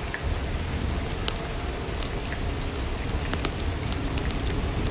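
Steady rain ambience, an even hiss with scattered sharp ticks and pattering drops.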